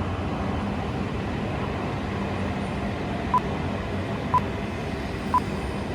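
A Hokuriku Shinkansen Asama train running, heard as a steady rumble. Three short, high beeps sound a second apart in the second half.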